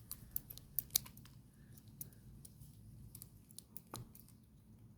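Scattered sharp clicks and snips of a blade working through small silicone pop-it toys, several close together in the first second and a single one about four seconds in.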